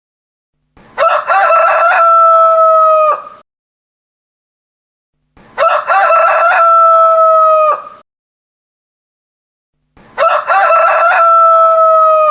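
Rooster crowing a full cock-a-doodle-doo three times, about four and a half seconds apart, each crow about two and a half seconds long. The three crows are identical, the same crow repeated.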